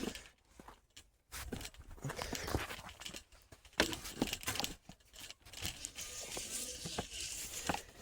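Close rustling, crinkling and irregular clicks and knocks of gear being handled and packed up.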